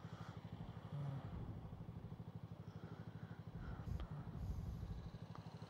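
Motorcycle engine idling at a standstill, a steady even throb of roughly ten pulses a second. A single light click comes about four seconds in.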